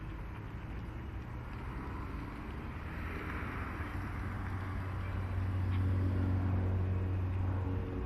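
Diesel locomotive engine running as a freight train approaches, its low steady hum growing louder over the second half.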